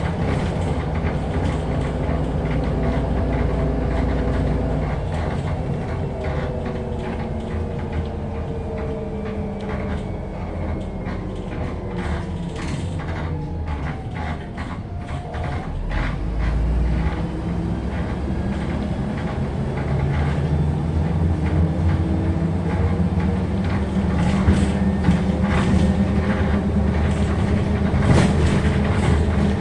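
MAZ-105 articulated city bus under way, heard from inside the passenger cabin: the engine runs steadily, its note falling about halfway through and then rising again. Body panels and fittings rattle and creak throughout, most busily in the middle and near the end.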